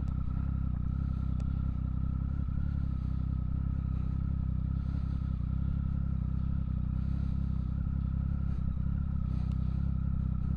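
Motorcycle engine running at a steady low speed, with no revving, as the bike rolls slowly over loose gravel.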